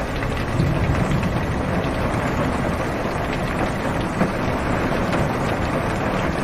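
Steady heavy rain drumming on a car's roof and windows, heard from inside the car, with scattered drop ticks over a low rumble.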